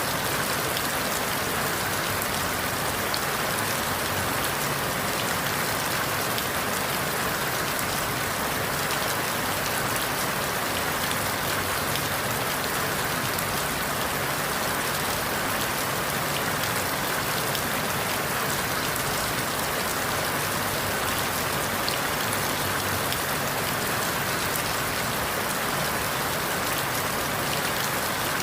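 Steady rain falling through forest leaves, a continuous even hiss with many small drop patters and no change in intensity.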